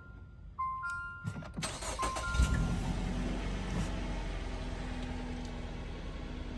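The dashboard's two-note warning chime sounds twice. The Jeep Renegade's 2.4-litre four-cylinder engine then cranks, catches about two and a half seconds in and settles into a steady idle. This is its first start on fresh 0W-20 oil after the oil change.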